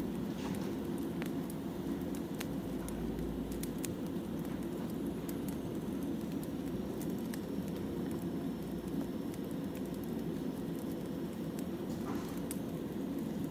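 Wood fire burning: sharp crackles and pops scattered over a steady low rumble.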